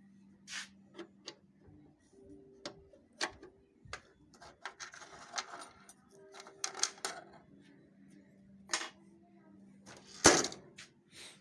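Parts of a Xerox WorkCentre 5855 copier's document feeder being handled and fitted back together: scattered clicks, taps and short rustles, with one sharp knock about ten seconds in. A faint steady hum runs underneath.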